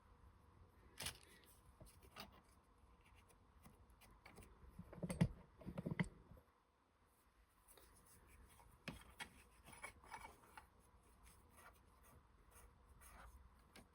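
Faint scraping, rubbing and small clicks of dirt and lint being cleaned out from under a sewing machine's lifted section, with two louder handling knocks about five and six seconds in.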